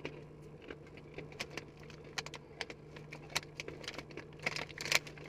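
Crunchy Flaming Hot Cheetos pretzels being chewed: a string of irregular crisp crunches, thicker near the end, over a steady low hum.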